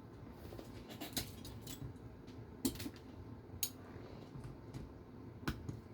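Scattered light clicks and taps of small RC car parts and tools being handled while a plate is fitted to the chassis, the sharpest near the middle and again near the end.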